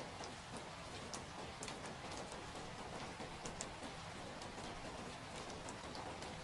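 Steady rain falling, with scattered drops tapping sharply and irregularly.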